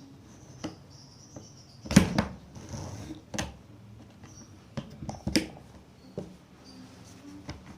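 Plastic toy pieces being handled and fitted together: a few sharp clicks and knocks, the loudest about two seconds in.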